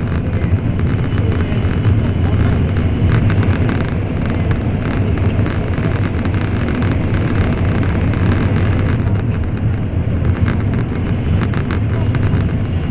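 Steady low rumble of an N700 series Shinkansen running at speed, heard from inside the passenger cabin, with many faint short ticks through it.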